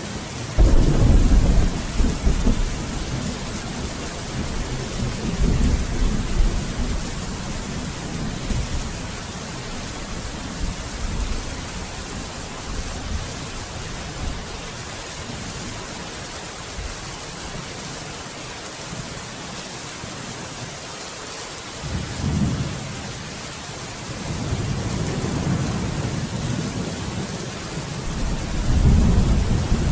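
Steady heavy rain with rolls of thunder: a loud deep rumble about a second in, further rumbles that die away, and more thunder building again in the last several seconds.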